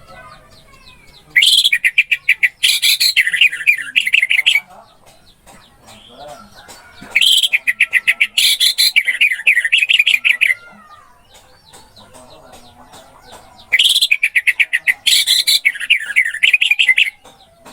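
Orange-headed thrush singing: three similar loud phrases of about three seconds each, fast runs of sharp notes, spaced about six seconds apart, with faint chirping from other birds between them.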